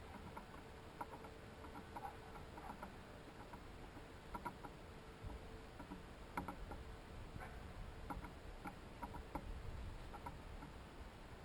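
Birds and chipmunks pecking and scrabbling at a seed feeder: scattered light taps and ticks, irregular and several a second, over a faint steady hum.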